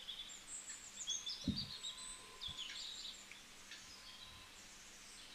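Faint birds chirping in the background, with many short high chirps, and a single soft knock about a second and a half in.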